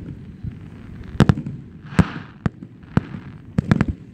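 Aerial fireworks display: about eight sharp bangs from shells bursting overhead, some in quick pairs and a cluster of three near the end, with short hissing between them.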